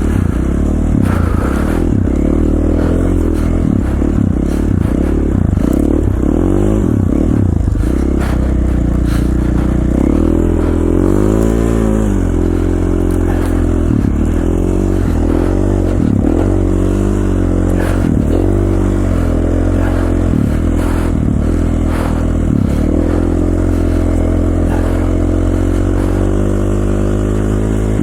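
KTM 450 XC-F single-cylinder four-stroke dirt bike engine under way, its revs rising and falling again and again as the throttle is worked.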